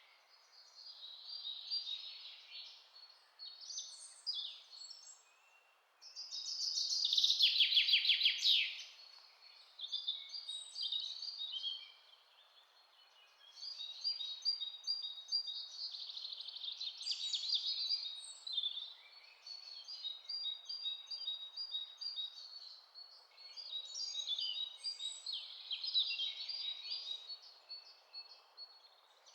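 Several songbirds singing in a forest: overlapping chirps and trills come in bouts, with the loudest, fastest run of notes about a quarter of the way in. A faint steady hiss lies underneath.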